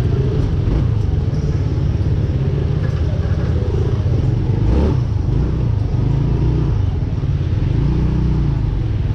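Kymco KRV 180 scooter's single-cylinder engine running while riding, a steady low rumble, with a brief louder swell about halfway through.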